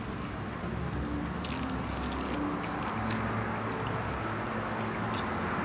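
Close-miked chewing with soft mouth clicks and smacks as a person eats pittu and pork curry by hand, over steady background noise.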